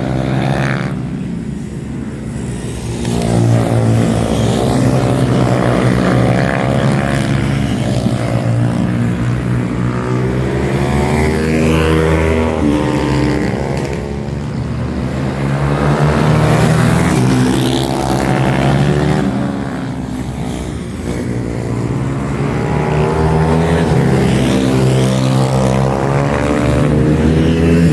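Several mini bike engines running hard, their pitch rising and falling again and again as the throttles open and close, with more than one engine heard at once.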